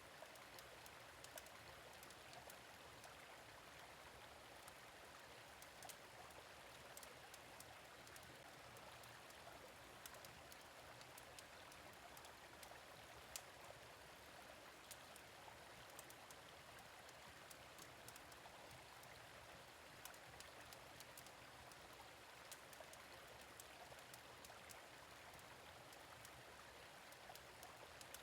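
Gentle stream flowing steadily, faint, with scattered sharp crackles and pops of a wood fire.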